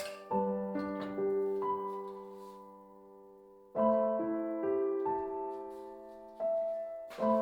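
Slow, soft solo piano music: single notes and chords struck and left to ring out.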